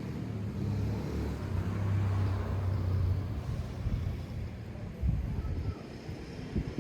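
Outdoor ambience: a steady hiss with a low rumble that swells in the first half and then fades.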